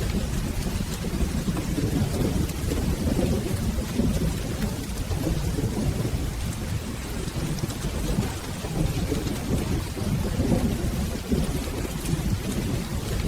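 Steady rain with a continuous low rolling rumble of thunder beneath it, with fine scattered ticks of drops over an even hiss.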